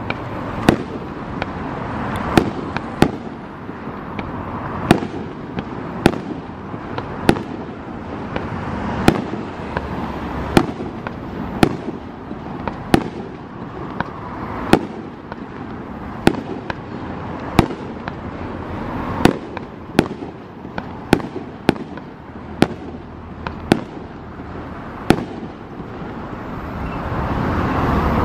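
Aerial fireworks display: firework shells bursting in irregular sharp bangs, roughly one a second, over a steady background rumble.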